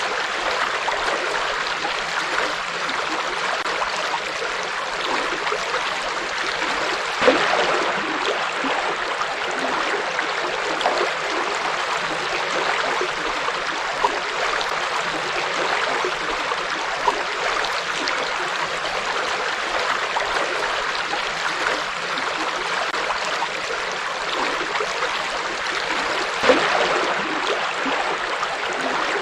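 Shallow river flowing steadily over rocks, with a few brief louder splashes and gurgles now and then.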